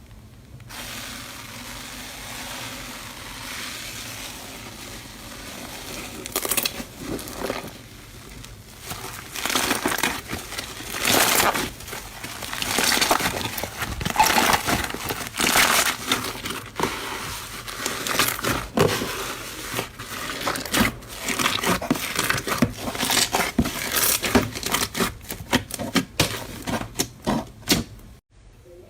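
Slime being pressed and squeezed by hand, with many short irregular crackles and pops. The first few seconds are a softer, steadier hiss.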